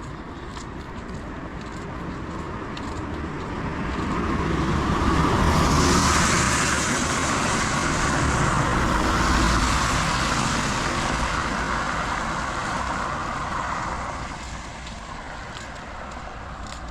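A car passing on a rain-wet road: the hiss of its tyres and engine builds for a few seconds, is loudest in the middle, then fades away over steady rain.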